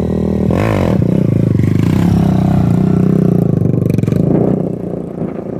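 A single-cylinder 125cc mini bike engine revs up about half a second in, then runs hard at steady high revs and eases off near the end.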